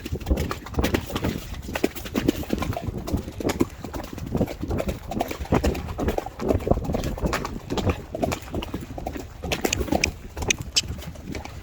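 Horse cantering under a rider: a steady run of hoofbeats.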